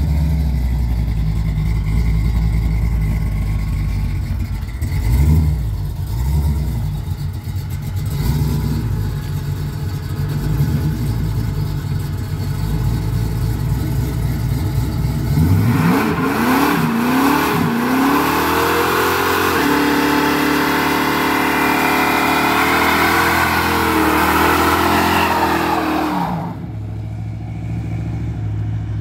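AMC Gremlin engine running at low revs with a short blip of throttle, then revving hard as the car pulls away, its note climbing in several steps before it falls away sharply near the end.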